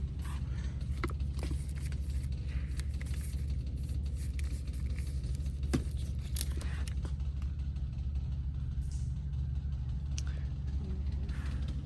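Steady low hum with scattered light clicks and rustles, one sharper click about six seconds in.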